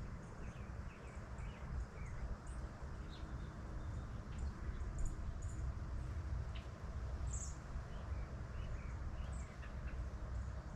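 Outdoor country ambience: a steady low rumble and hiss, with scattered short, high bird chirps, the loudest about seven seconds in.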